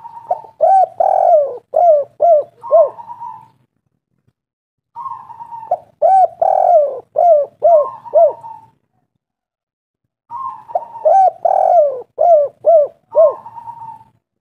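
Spotted dove cooing three times, each phrase a drawn-out opening note followed by a run of short, hooked coos, with pauses of a second or two between phrases.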